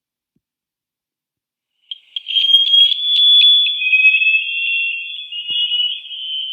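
Underwater recording of an active sonar signal: a high, alarm-like electronic tone of two close pitches, one of them gliding slightly upward. It starts about two seconds in with a few clicks and holds for about five seconds.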